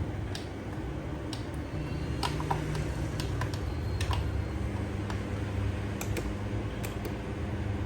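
Scattered light clicks, about a dozen at irregular intervals, over a steady low hum.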